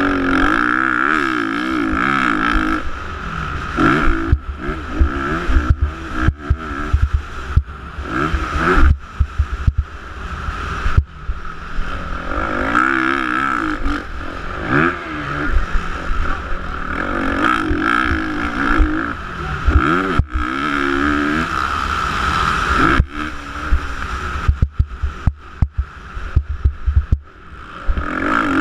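Motocross bike engines revving up and falling off again and again as the bikes ride the course, with many sharp knocks and a heavy low rumble throughout.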